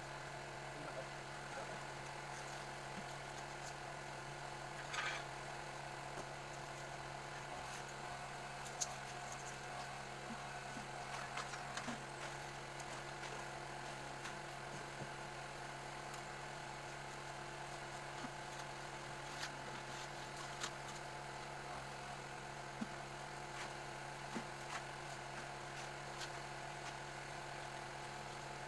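A steady, even engine hum of machinery running, with scattered light knocks and clicks and a brief louder scrape about five seconds in.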